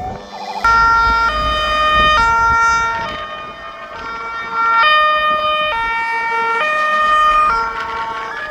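Fire engine two-tone siren, alternating between a high and a low note, each held for just under a second, over the low rumble of the truck's engine.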